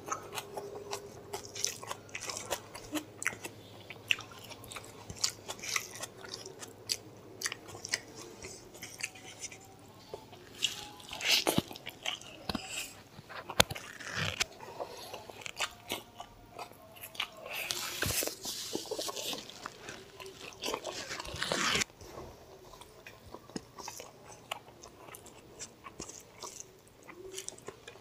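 Close-miked eating sounds: chewing and biting a mouthful of mutton curry and rice, with irregular crunches and wet clicks, and fingers mixing the food on the plate. Louder, noisier stretches come about 11 seconds in and again from about 18 to 22 seconds.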